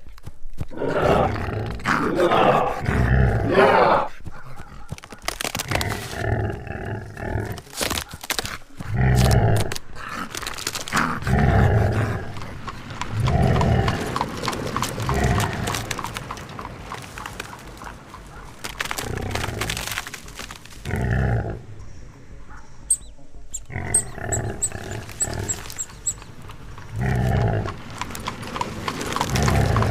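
Wild animals roaring and growling again and again, a loud rough call every one to three seconds.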